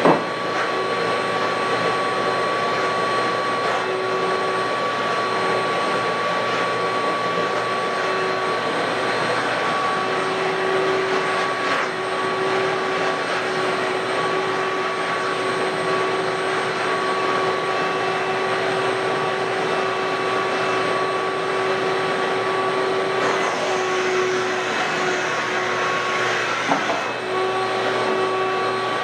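Electric carpet-cleaning machine running steadily: a continuous motor noise with a constant whine, a brief knock at the start and a short bump near the end.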